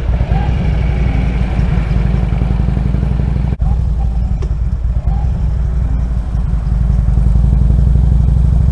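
Harley-Davidson Road King's V-twin engine running steadily, a little louder from about seven seconds in.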